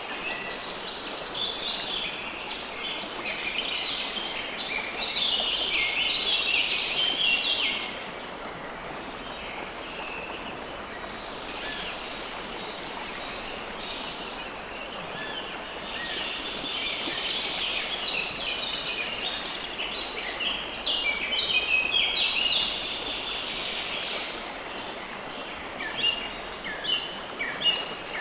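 River water flowing steadily, with a chorus of birds chirping rapidly over it. The chirping is dense at first, thins out for several seconds in the middle, then returns thickly.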